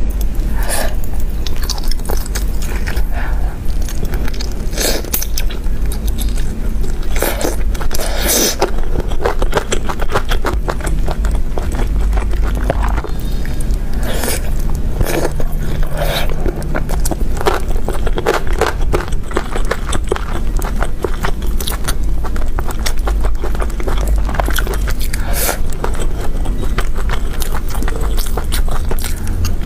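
Close-miked eating of braised meat: biting and chewing, with many short wet clicks and smacks of the mouth throughout, over a steady low hum.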